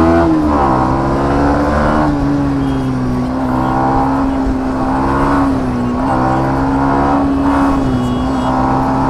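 Single-cylinder motorcycle engine running under way, its note climbing again and again as the bike accelerates and drops back between shifts.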